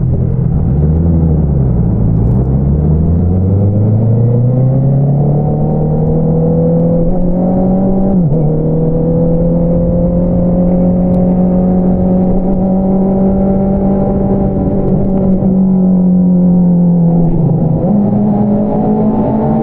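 A 2022 Honda CBR650R's inline-four engine running through an Akrapovič single-outlet exhaust under way. The pitch climbs steadily as the bike accelerates, drops sharply about eight seconds in at an upshift, then holds nearly steady. Near the end it dips briefly and steps back up.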